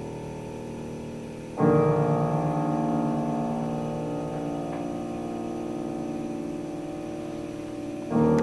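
Piano playing a classical piece: a loud chord struck about a second and a half in rings on and slowly fades, and another loud chord is struck near the end.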